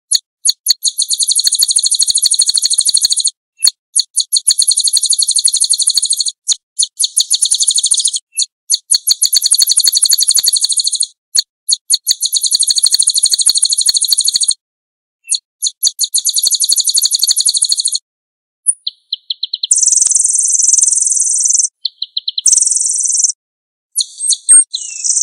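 Small songbirds singing: long, very rapid, high-pitched trills in phrases of two to three seconds separated by short gaps, giving way near the end to shorter, denser high phrases.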